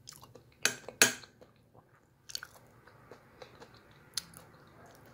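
A person chewing a mouthful of soft stewed beef and vegetables close to the microphone. A few sharp clicks come through, the two loudest about a second in.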